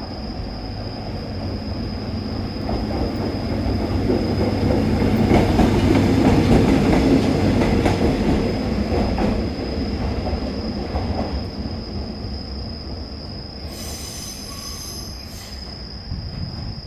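DD200 diesel-electric locomotive passing with its train, its engine running under a rumble of wheels on rail. It grows louder to a peak about six seconds in, then fades away.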